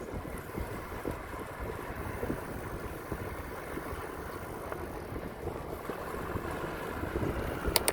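Steady wind buffeting on the microphone of a bicycle ride, mixed with the low rolling rumble of the bike on the path. A quick pair of sharp clicks comes near the end.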